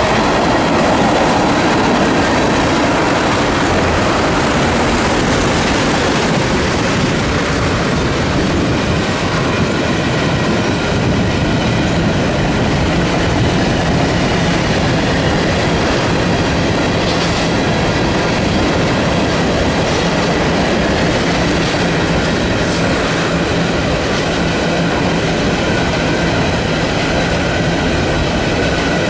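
A freight train's cars rolling past at steady speed, a continuous clatter of wheels on rail with a thin steady high ringing over it.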